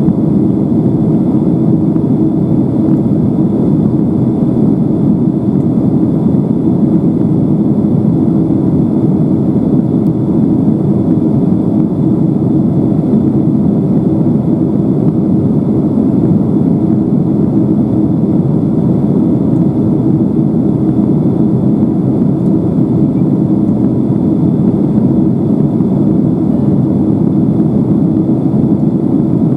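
Steady jet engine and airflow noise of a Boeing 767-300ER heard from inside the passenger cabin, with a faint constant hum running under it.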